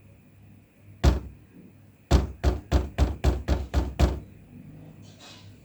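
Hard knocks on a faulty laptop keyboard, a key struck forcefully: one strike, then a quick run of about seven at roughly three or four a second.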